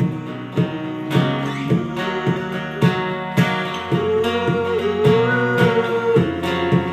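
Acoustic guitar strummed in a steady rhythm in a live pop-rock band performance, with a long wavering held note in the middle of the passage.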